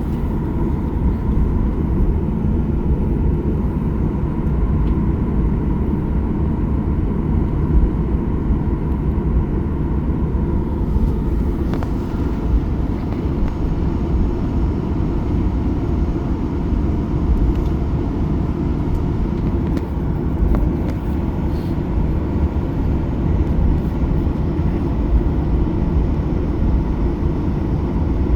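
Cabin noise of a Boeing 737-800 on the ground before takeoff: its CFM56-7B engines running at low power under a steady low rumble, with a faint steady tone.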